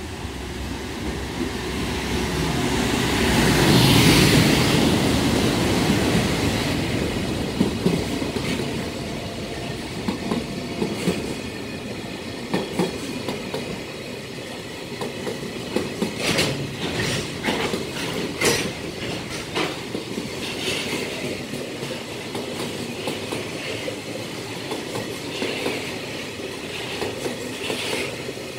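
A JR Freight EF510 electric locomotive passes through a station at speed, loudest about four seconds in. A long rake of container wagons follows, rolling and clattering over the rails with sharp wheel clacks.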